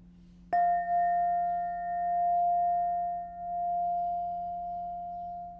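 Crystal Tones alchemy crystal singing bowl struck once, then ringing on one clear, steady note with fainter higher overtones. The tone swells and dips gently as it slowly fades.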